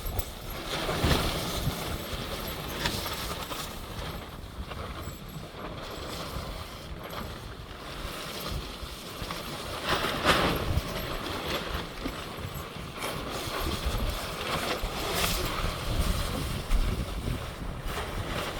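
Strong gusty wind buffeting the microphone, a steady rumbling noise that swells in gusts about a second in, near the middle and again later.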